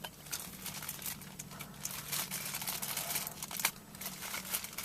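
Packaging crinkling and rustling as it is handled, in many short irregular bursts, over a faint steady low hum.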